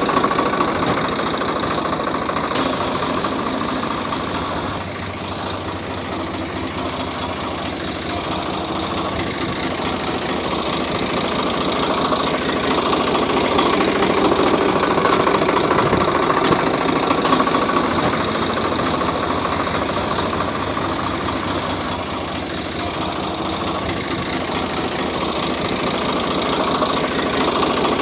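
Small motor of a DIY model mini tractor running steadily with a busy mechanical whir, its loudness easing and swelling slowly a couple of times.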